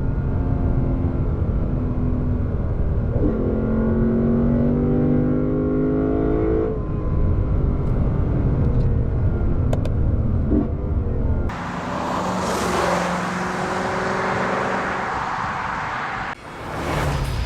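Lexus RC F's 5.0-litre V8 under acceleration, its revs climbing steadily through a gear. It then runs at steadier revs. About two-thirds of the way through, a broad rushing noise of wind and tyres takes over with the engine faint.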